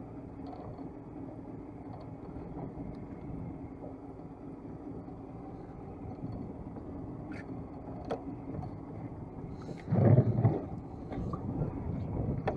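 A small boat's engine running steadily with a low hum. About ten seconds in there is a sudden loud thump or bump lasting about half a second.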